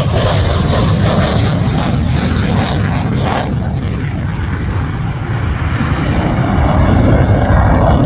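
An airplane's engine running loud and continuous during an air-show flying display. The higher part of the sound fades after a few seconds and the sound grows louder again near the end, as the aircraft moves about.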